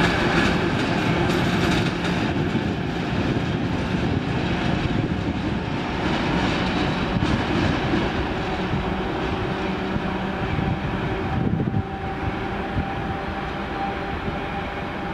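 Train of passenger coaches rolling along the rails, wheels clattering over the track, growing quieter as it moves off.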